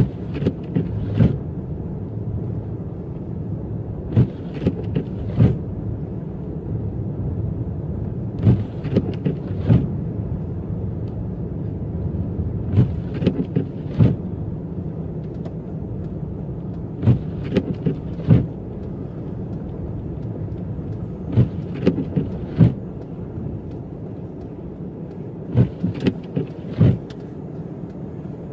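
Car driving: a steady low rumble of engine and tyres, broken by short, irregular knocks and clatters every second or few.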